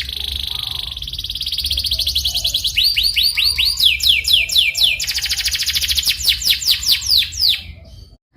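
Domestic canary singing: a fast rolling trill, then runs of repeated sweeping whistled notes alternating with further trills, cutting off suddenly near the end.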